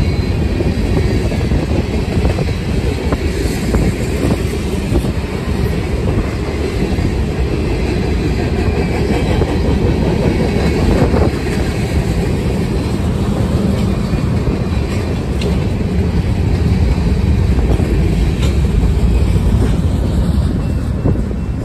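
A train passing, its wheels running steadily on the rails in a continuous loud rumble that eases slightly near the end.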